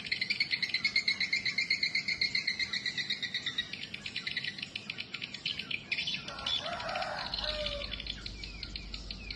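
Swiftlets chirping: a fast, continuous high-pitched twittering that is loudest for the first few seconds and then eases off, with a few lower chirps mixed in about two-thirds of the way through.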